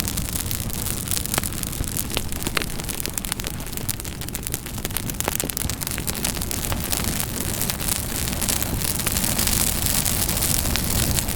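Campfire crackling, with many sharp pops and snaps over a steady low rumble of the flames.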